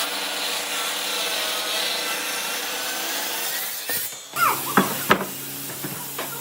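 A power tool working on old wood, a steady grinding rub that cuts off about four seconds in, followed by a few sharp clicks and short squeaks.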